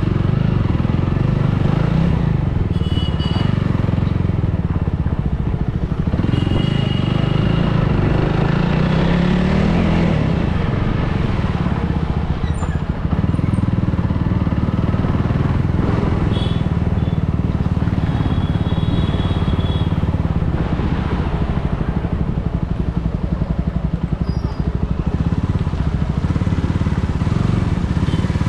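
Superbike engine running while ridden through traffic, low and steady, its pitch rising for a couple of seconds about eight seconds in. Brief high-pitched tones sound several times over it.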